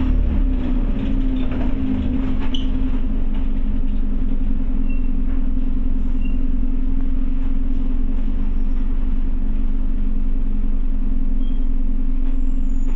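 Interior sound of a Scania OmniCity bus: the diesel engine running with a steady low hum at an unchanging pitch, with some faint rattles in the first couple of seconds.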